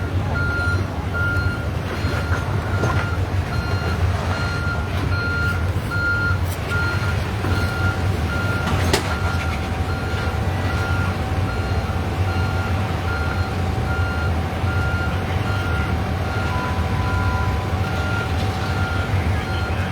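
A heavy truck's backup alarm beeping steadily, roughly once a second, over the low rumble of its running engine, with a single sharp click about nine seconds in.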